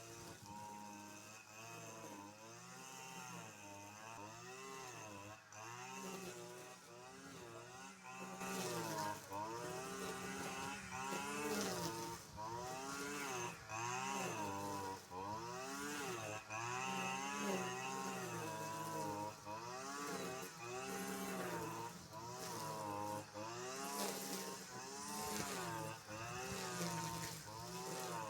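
Car engine revving up and falling back again and again, roughly once or twice a second, louder from about eight seconds in.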